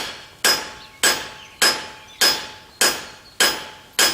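Cross peen hammer striking hot square steel bar on an anvil in a steady rhythm, a little under two blows a second, each blow ringing and dying away, drawing the metal out to spread it.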